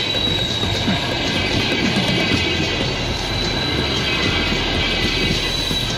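High-speed passenger train rolling past close by, its cars running over the rails with a steady rumble and a steady high-pitched whine.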